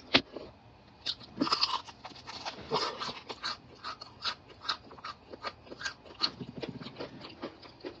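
Close-miked eating of crispy double-fried chicken: irregular crunching and crackling bites and chewing, with small wet mouth clicks.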